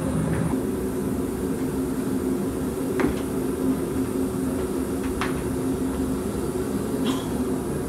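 A steady mechanical hum with a few short, sharp clicks, about three, five and seven seconds in.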